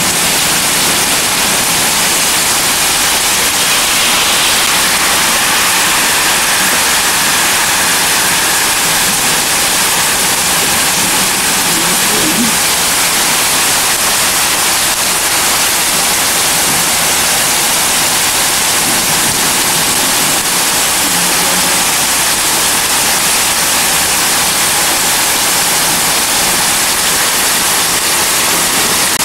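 Heavy rain pouring steadily: a loud, even hiss with no thunder claps.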